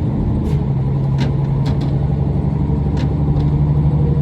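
Diesel railcar engine running steadily: a low, even hum with a slight rise in pitch about half a second in and a few faint clicks.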